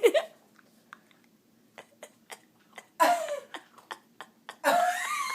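A person's non-speech vocal sounds: a short cough-like burst about three seconds in, then a longer high-pitched voiced sound near the end, with faint scattered clicks in between.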